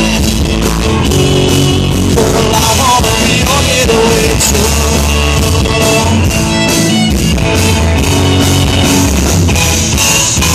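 Live country band playing an instrumental passage after the last chorus of a song: electric guitar lead with bent notes over drums and bass.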